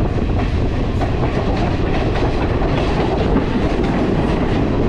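Passenger train running on the rails: a steady loud running noise with repeated clicks of the wheels over the track.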